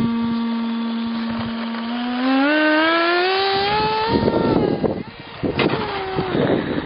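Small electric motor of a radio-controlled model plane whining at a steady pitch, then rising in pitch in steps as the throttle is opened, before cutting off about four seconds in; a short second burst of the motor follows near the end, with wind noise throughout.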